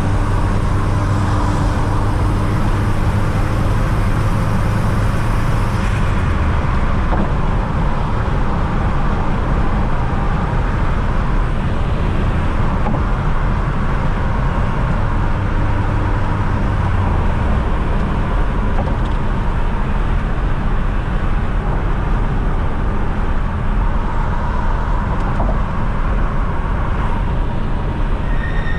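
Fiat Coupe 16V Turbo's turbocharged four-cylinder engine running steadily at road speed, with tyre and road rumble. The engine note drops a step twice, about six and seventeen seconds in.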